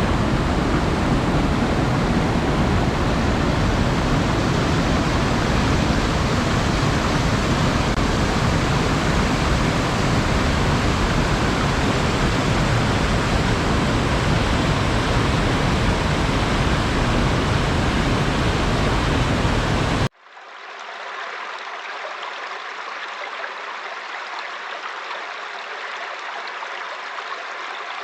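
Steady loud rushing water, as of a waterfall or fast stream. About twenty seconds in it cuts off abruptly and gives way to a quieter, thinner flow of water with a few faint ticks.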